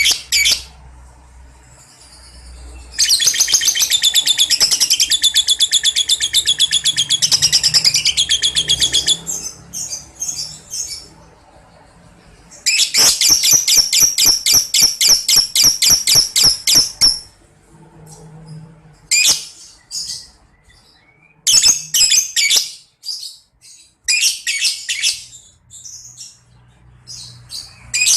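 Lovebird 'ngekek': long runs of rapid, shrill chattering notes, two long runs of several seconds each followed by a string of shorter bursts.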